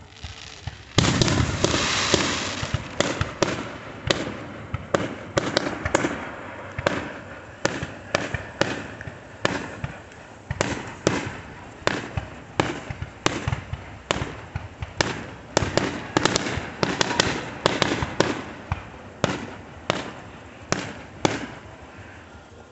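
Consumer fireworks going off as a rapid string of sharp bangs and crackles. A dense burst starts about a second in, then separate cracks follow several times a second and stop shortly before the end.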